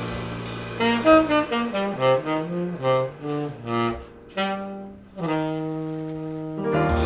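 Saxophone in a jazz band playing a quick run of separate notes over a fading chord, then holding one long note; the full band comes back in on a low, loud chord near the end.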